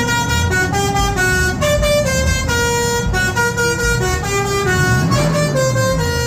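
Renault Premium truck's musical air horns playing a tune in quick stepped notes, each note held briefly. A low tone rises and falls near the end.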